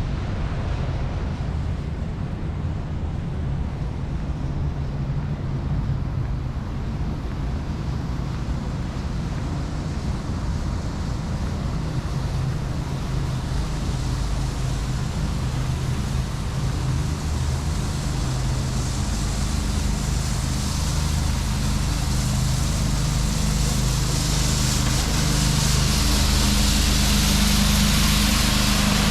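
Street traffic: a vehicle engine running steadily, with a rushing hiss that grows louder in the last few seconds.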